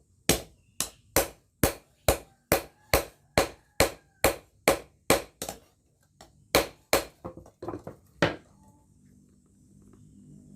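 Hand hammer striking a rail-steel golok blade, at a steady two to three blows a second. After a short pause about five and a half seconds in, five more blows follow and the hammering stops just past eight seconds.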